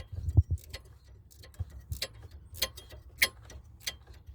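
Repeated sharp clicking from behind a 2011 Ford F-150's dash, roughly one or two clicks a second at uneven spacing: the HVAC blend door actuator clicking, the sign of its worn little gears.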